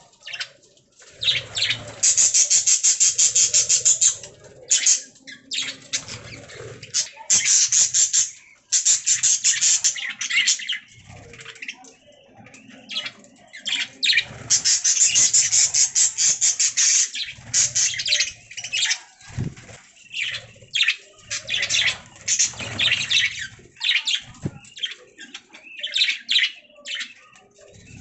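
Budgerigars chirping and warbling in fast, chattering runs, loud stretches of a few seconds broken by short pauses.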